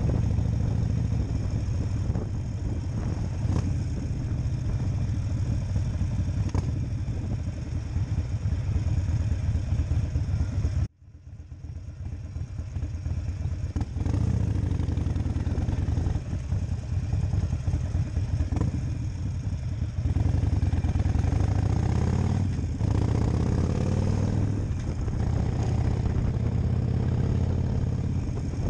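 Harley-Davidson Nightster 1200 V-twin motorcycle engine running with a steady low rumble. The sound cuts out abruptly about eleven seconds in and fades back up over the next few seconds.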